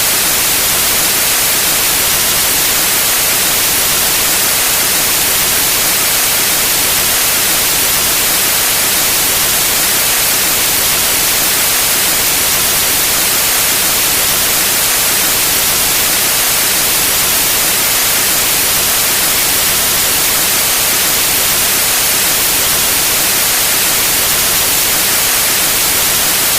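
Steady white noise, an even hiss with the most energy in the high frequencies, unchanging throughout.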